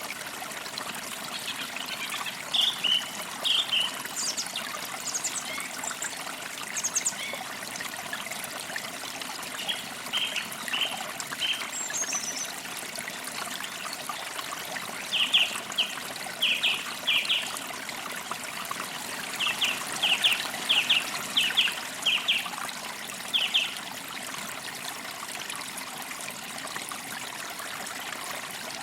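Forest creek trickling steadily, with birds chirping in short bursts of quick repeated notes now and then.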